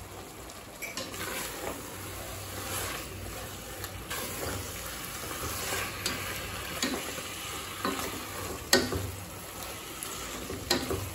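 Chicken pieces and masala frying in a stainless steel pressure cooker while a wooden spatula stirs them: a steady sizzle with sharp knocks and scrapes every second or two as the spatula hits the pot.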